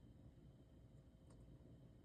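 Near silence: a faint low background rumble, with one faint tick just past halfway.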